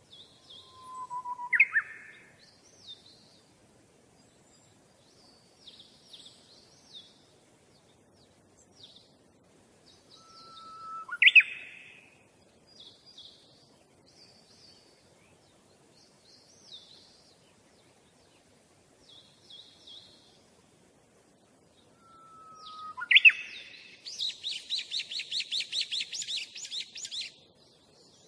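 Songbirds chirping. Three times, at about one, eleven and twenty-three seconds in, a short whistle sweeps sharply upward, with brief high chirps scattered between. About twenty-four seconds in comes a fast, evenly repeated trill lasting about three seconds.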